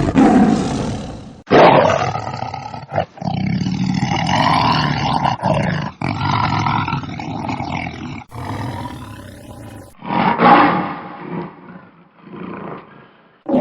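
Lions roaring: a string of loud roars, one after another, broken by several abrupt cuts where separate recordings are spliced together.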